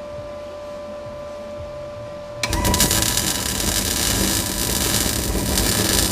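Electric arc welder humming steadily, then about two and a half seconds in the arc strikes and crackles and sizzles without a break as rust-thinned steel on a tractor loader bucket is welded.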